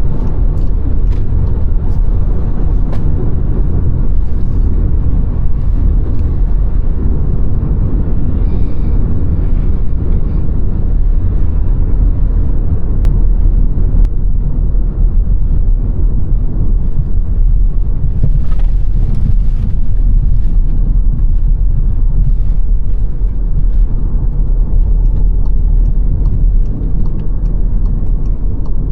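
Car driving at steady speed: a low, constant rumble of tyres and engine on the road. A brief hiss rises and fades a little past the middle, and faint regular ticking comes in near the end.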